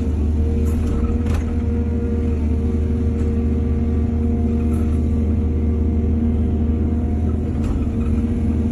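Heavy diesel engine of earthmoving machinery running steadily at a constant speed, with a deep hum and a couple of faint knocks.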